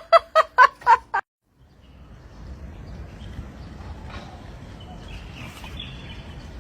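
A bird gives a quick series of about six short, loud calls, about five a second, which stop abruptly a little over a second in. A steady low background rumble follows.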